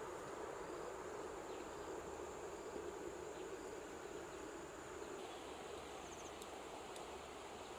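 Faint, steady outdoor ambience with a thin, high insect drone held on one pitch.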